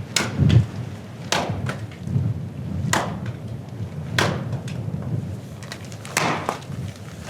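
Firewood being chopped and split: a series of sharp wooden cracks and splintering strikes, about one every second or so, some in close pairs, over a steady low rumble.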